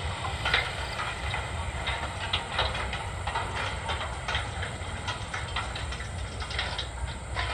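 A farm vehicle's engine running with a steady low rumble under continual rattling and clatter.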